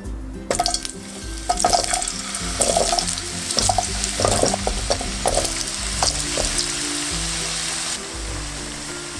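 Raw sweet potato chunks frying in shallow oil in a wok. A hiss and a run of sharp pops and crackles as the pieces go into the hot oil over the first several seconds, settling into a steadier sizzle near the end.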